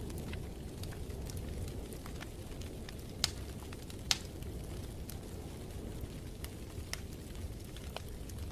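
Wood fire crackling in a fireplace: scattered sharp pops and snaps over a low steady rumble, with two louder pops a little before the middle.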